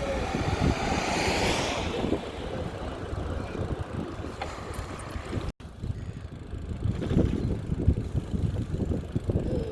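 Wind buffeting the microphone of a camera on a moving bicycle, a gusty low rumble with a swell of hiss between one and two seconds in. The sound cuts out completely for an instant a little past halfway.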